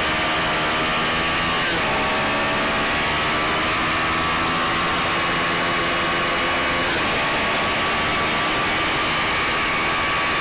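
Suzuki SV650's V-twin engine running hard at speed, under a heavy rush of wind noise. Its pitch breaks briefly about two seconds in and again about seven seconds in.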